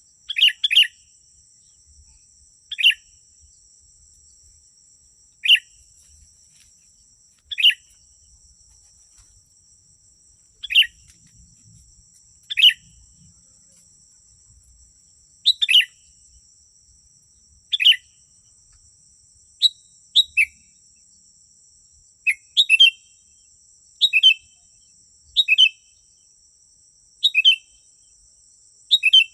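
Sooty-headed bulbul (kutilang) calling: short, bright chirped phrases, one every two or three seconds at first, then coming faster, about one a second, in the last third.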